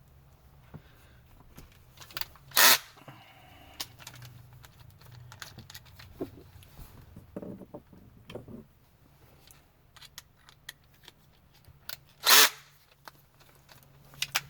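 Light handling noises in a pickup truck's cab, scattered small clicks and taps over a faint steady low hum, broken twice by a short, loud burst of noise: once about two and a half seconds in and once near the end. This fits the rubber interior mats and trim being handled and set aside.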